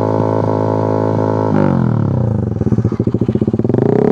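Honda Sonic 150R's single-cylinder engine revved through a Purbalingga-made SC Project-style exhaust with no dB killer, held steady at high RPM, then dropping about a second and a half in to a choppy idle, and revving up again near the end.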